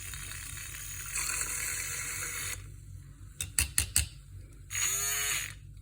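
Liquid being poured into a cup for about two and a half seconds, then a few sharp clinks, then a second short pour whose pitch rises as the cup fills.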